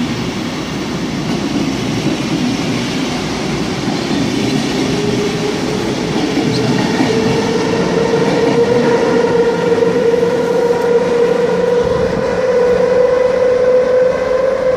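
SBB passenger train pulling out of an underground station, its coaches rumbling past. From about five seconds in, a whine from the red electric locomotive climbs steadily in pitch as the train gathers speed.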